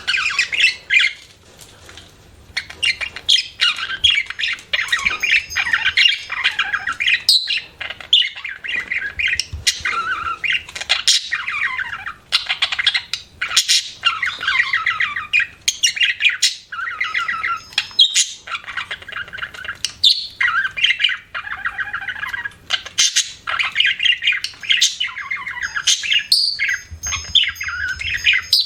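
Budgerigar chirping and chattering in a rapid, continuous run of short notes, with a brief pause about two seconds in.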